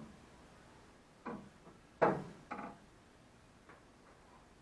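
A few short knocks and clicks of hand work on a car, the loudest about two seconds in.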